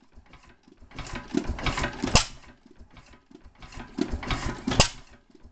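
Antique Masure et Deltour stationary gas engine running slowly on its freshly adjusted governor. A burst of mechanical clatter comes every two to three seconds, each ending in one sharp crack, with lighter ticking between the bursts.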